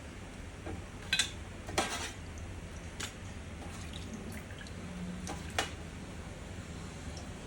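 A handful of short, sharp metallic clinks and taps, as of small metal parts and tools handled on a workbench, over a steady low hum.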